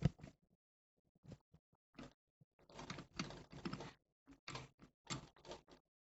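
Pinch-off pliers being handled and clamped onto the compressor's copper process tube for the first crimp, a run of irregular quiet clicks and scrapes.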